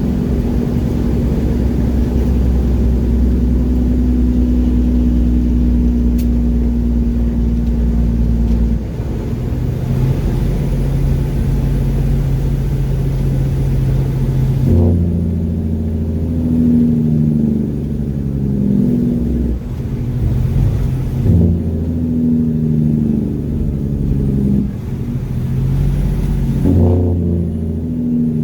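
Mack truck's diesel engine running on the road. Its note is steady at first, changes about nine seconds in and again around fifteen seconds, then rises and falls repeatedly.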